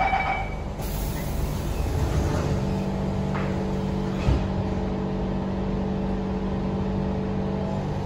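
Inside a 1995 Siemens C651 MRT carriage: the door-closing chime ends within the first second, the doors shut, and about two and a half seconds in a steady electrical hum of several tones sets in from the train's equipment while it stands ready to depart. A single short knock comes about four seconds in.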